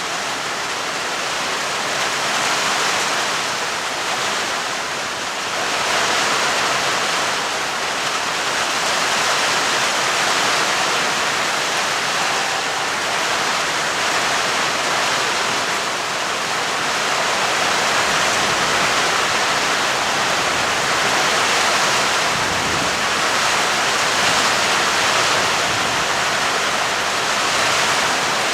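Heavy rain falling steadily, a dense even hiss that swells and eases slightly.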